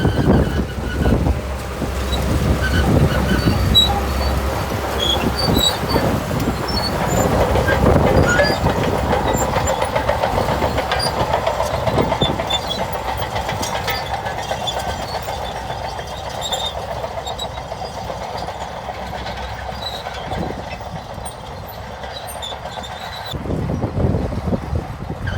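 Shantui bulldozer running under load, its engine rumbling with the clatter and squeak of its steel tracks.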